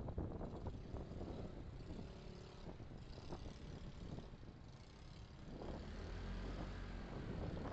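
Car driving: a low, steady rumble of engine and road noise, picked up by a dashcam. It eases slightly midway and grows again near the end.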